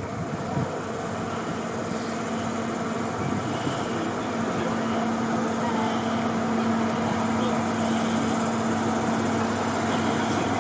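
Diesel locomotive engine running, growing gradually louder, with a steady droning note that comes in a few seconds in and holds.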